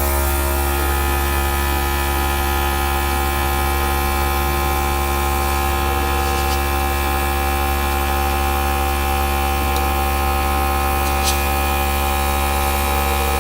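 Small electric airbrush (air gun) compressor running steadily with an even buzzing hum, just switched on. A light click comes near the end.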